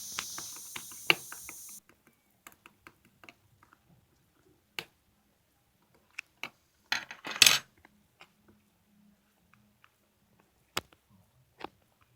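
Opaque marbled slime being pressed and squished by hand, giving scattered sharp clicks and pops, with a louder crackling squish about seven seconds in. A steady hiss runs for the first two seconds and cuts off suddenly.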